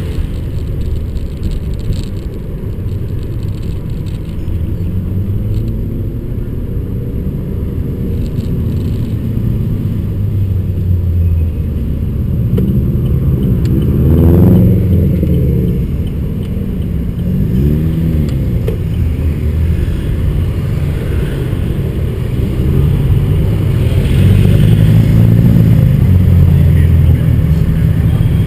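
Opel Astra GTC's engine heard from inside the cabin, revving up and dropping back again and again, loudest near the end.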